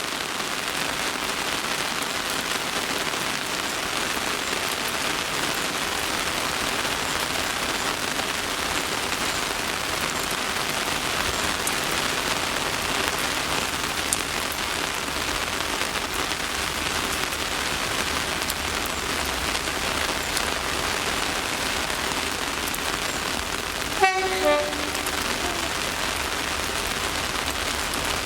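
Steady rain falling, a continuous even hiss. Near the end, after a brief dropout, a short two-part tone sounds.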